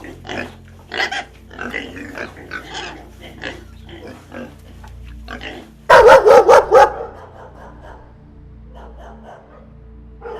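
Pig grunting in short, repeated grunts, then about six seconds in a dog barks rapidly about six times, loud and sharp.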